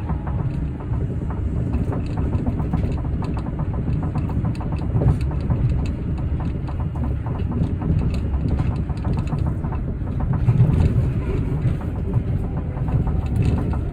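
Osaka Metro New Tram automated rubber-tyred people mover running at speed: a steady low rumble of tyres on the guideway with a rapid patter of small clicks, swelling slightly about five and ten seconds in.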